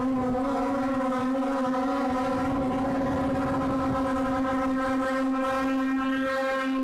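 DJI Air 2S quadcopter's propellers hovering: a steady, even buzzing whine held at one pitch.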